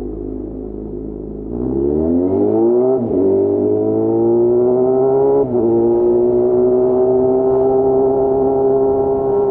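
Yamaha FZ6's 600 cc inline-four engine pulling away from low revs about a second and a half in, its pitch rising, with upshifts about three seconds in and again about five and a half seconds in, then settling to a nearly steady pitch.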